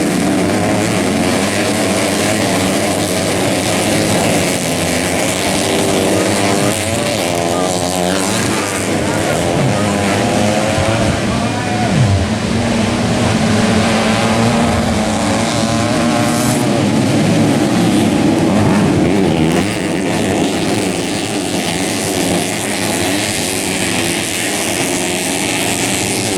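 Several dirt bikes racing on a grasstrack circuit, their engines revving up and down in overlapping waves as they accelerate and pass.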